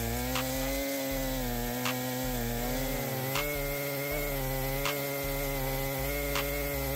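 Chainsaw running at high revs and cutting wood, its engine pitch sagging slightly under load about halfway through. A short click sounds about every one and a half seconds.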